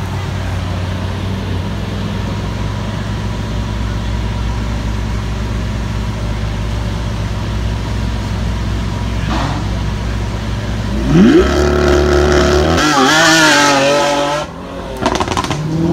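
Lamborghini Centenario's 6.5-litre V12 idling steadily, then about eleven seconds in revving sharply and launching hard with the rear tyres spinning, its pitch climbing and wavering as it pulls away. Near the end the sound dips briefly and rises again.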